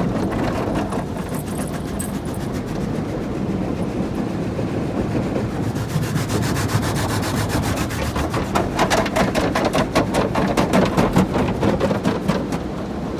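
Tunnel car wash machinery working over the car, heard from inside the cabin: a steady rubbing and scrubbing, with a rapid, dense slapping setting in about six seconds in.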